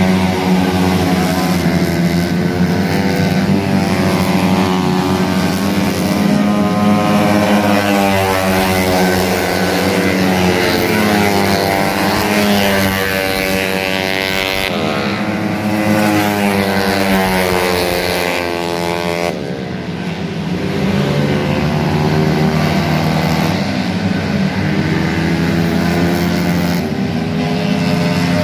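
Small motorcycle engine running under tune-up, revved up and down several times with its pitch slowly rising and falling, easing off briefly about two-thirds of the way through before climbing again.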